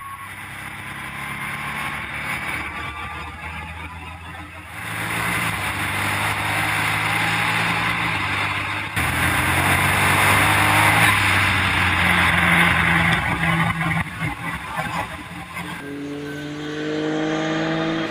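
Formula Ford racing car's 1-litre three-cylinder EcoBoost engine running hard at high revs, its pitch stepping up and down several times, over loud wind and road noise.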